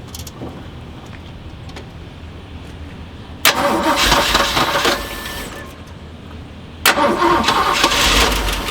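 A 1978 Jeep engine cranked over by its starter in two bursts: the first about three and a half seconds in, lasting a second and a half, the second starting about seven seconds in. It is cranked to test whether the fuel pump delivers fuel through the disconnected line, and the engine does not start.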